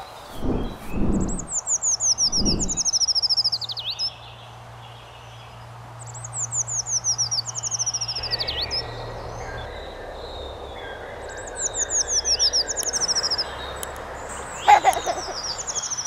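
Treecreeper singing: three high, thin song phrases a few seconds apart, each a quick run of notes falling in pitch and ending in a short flourish. A few low thumps sound in the first seconds.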